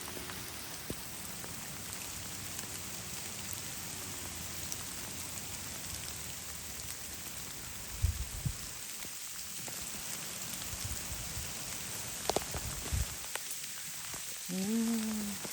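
Steady rain falling, a continuous patter of drops on surfaces, with a few brief knocks around the middle and later on.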